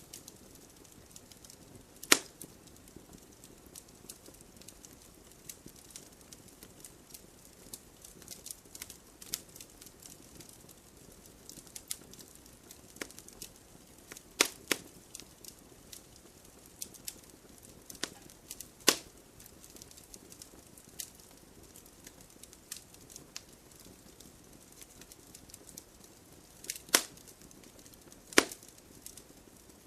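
Wood campfire crackling and popping: irregular sharp snaps over a soft hiss of burning, with a few louder pops about 2, 14, 19, 27 and 28 seconds in.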